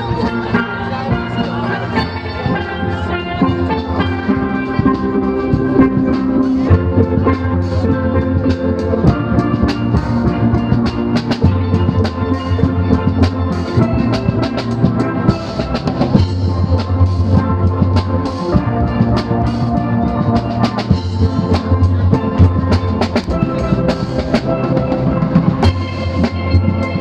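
Steel pan band playing a lively tune, the pans ringing out melody and chords over a bass line and a drum beat.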